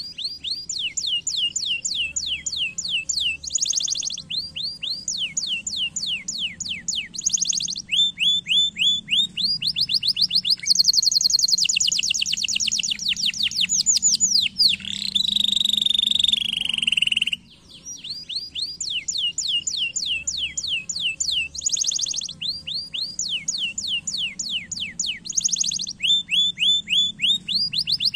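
Domestic canary singing: fast runs of repeated downward-sweeping notes alternating with dense, rapid trills. The song breaks off briefly about 17 seconds in, then starts again.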